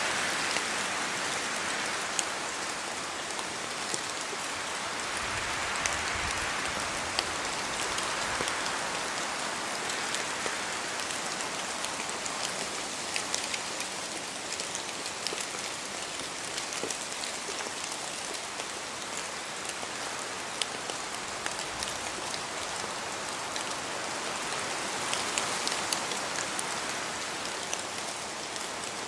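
Steady rain falling on forest leaves, with many sharp drops ticking close by. A hiss of wind swells and eases several times.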